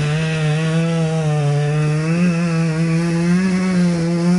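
Echo two-stroke saw held at full throttle while cutting wood, its high engine pitch wavering slightly with the load.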